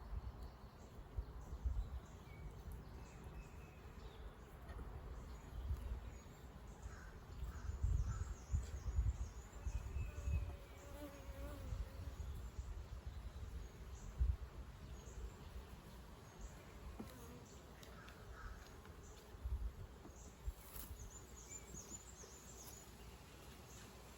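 Honeybees buzzing around an open hive during an inspection, single bees drifting past in faint wavering hums. Irregular low rumbles on the microphone come and go over it, loudest in the middle.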